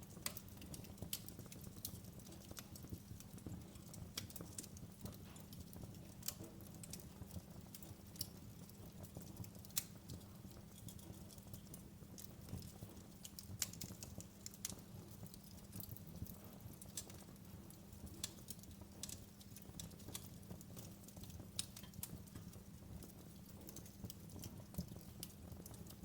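Wood fire in a fireplace crackling: irregular sharp pops and snaps, some louder than others, over a low steady rumble.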